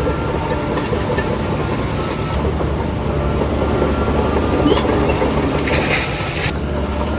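Heavy diesel earthmoving machinery running steadily with a low engine hum and some clatter. A short hiss lasts under a second, about six seconds in.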